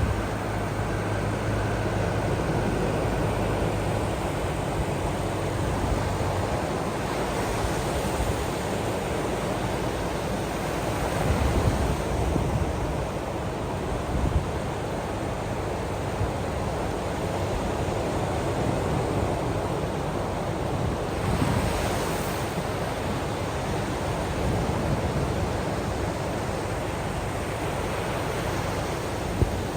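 Ocean waves washing in steadily, with small swells now and then. A low steady hum sits under the surf for the first few seconds.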